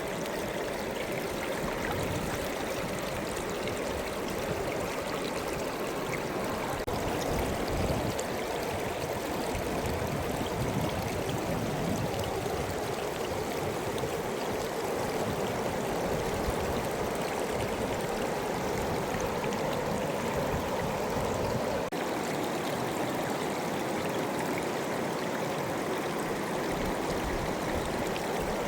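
Fast mountain river flowing with a steady, even rush of water.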